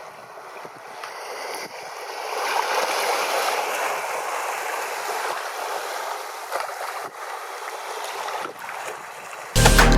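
Rushing water, a steady even hiss that swells in over the first couple of seconds and then holds.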